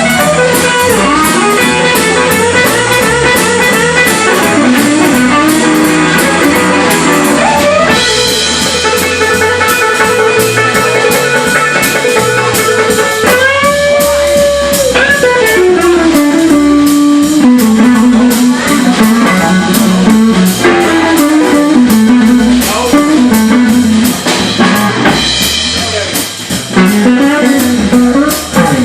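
Live blues band playing: an electric guitar lead with long, bent, sustained notes over drums and rhythm backing.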